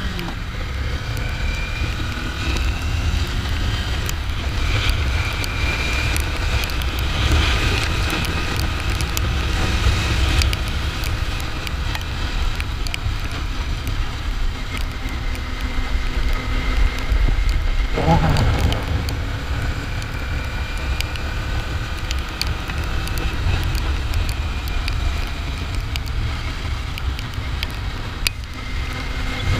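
Kawasaki Ninja 400's parallel-twin engine running under way, its note slowly rising and falling, under heavy wind buffeting on the microphone.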